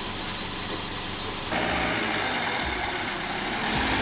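Car running, its engine and road noise a steady hiss with a low hum, which turns louder about a second and a half in.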